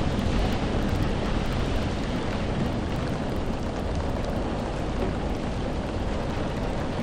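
Steady rain: a dense, even hiss with a deep rumble underneath.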